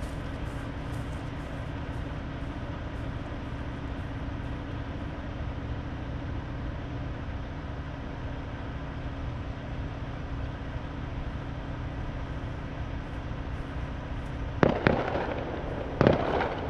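Steady low background noise, then two sharp firework bangs near the end, about a second and a half apart, each trailing off briefly.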